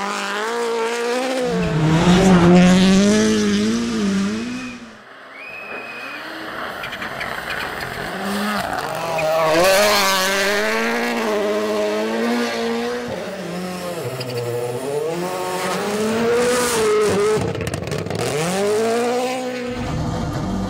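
Rally car engines revving hard, the pitch rising and falling repeatedly as the throttle is worked, with a brief drop about five seconds in before the engine note picks up again.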